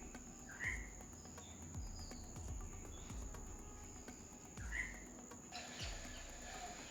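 Faint background sound: a steady high insect-like drone, two short chirps, and soft low thuds about every second.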